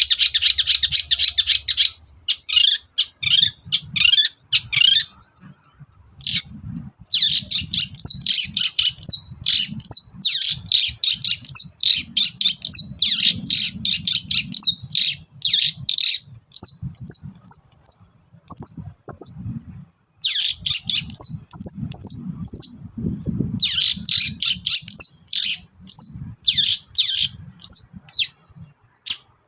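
Long-tailed shrike (cendet) singing a fast, scratchy, chattering song in bursts separated by short pauses, with a faint low rumble underneath.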